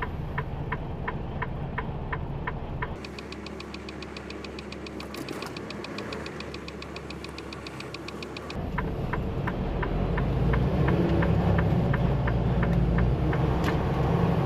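Semi-truck cab: the diesel engine runs while the turn signal clicks about three times a second. For about five seconds in the middle a faster, higher ticking takes over. Then the slower clicking returns and the engine grows louder.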